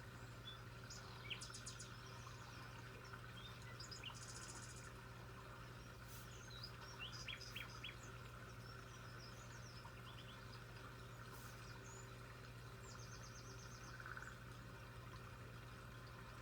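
Faint birdsong: short high chirps scattered throughout, with a few quick trills, over a steady low hum.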